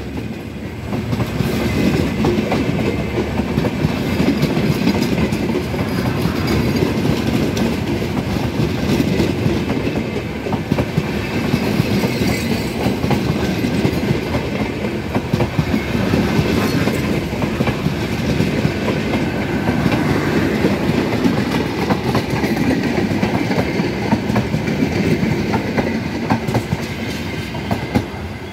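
Bangladesh Railway intercity passenger coaches rolling past close by, with a steady loud rumble and the clickety-clack of wheels over rail joints.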